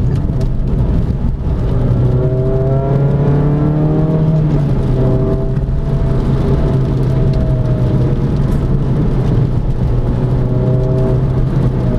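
Renault Clio 200's 2.0-litre four-cylinder engine heard from inside the cabin over steady tyre and road noise. After a brief dip about a second in, as the gear is changed, the engine note climbs for a couple of seconds under acceleration, then holds steady.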